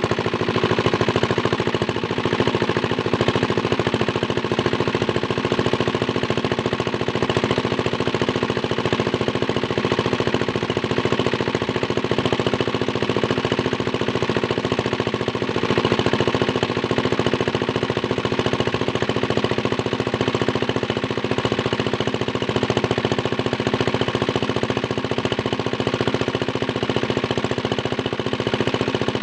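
Small diesel engine running steadily, driving a water pump, with a rapid, even knocking beat.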